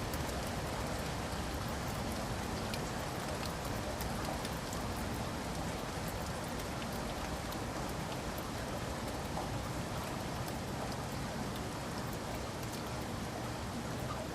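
Steady rain falling, a constant hiss with scattered sharp drop taps.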